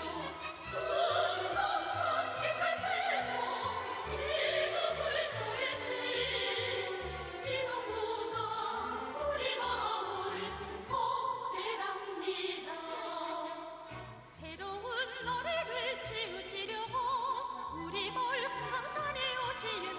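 Operatic singing with strong vibrato over an orchestral accompaniment, played continuously.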